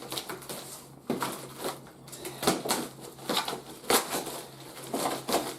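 Plastic and cardboard toy packaging being handled and pulled apart, giving irregular crackles, rustles and sharp clicks. The sharpest click comes about four seconds in.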